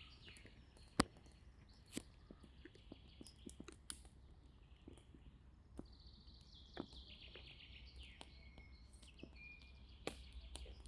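Quiet forest background with a songbird singing quick runs of high notes that slide downward, one phrase near the start and several more in the second half, with scattered sharp clicks and snaps in between.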